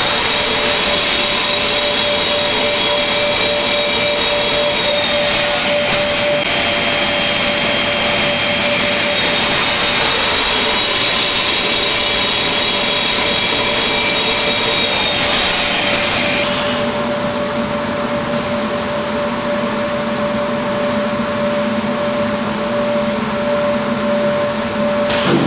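Automatic MDF panel-cutting saw running, a loud steady rush of noise with a constant whine over it. About seventeen seconds in, the higher whistling fades out and a lower hum takes over.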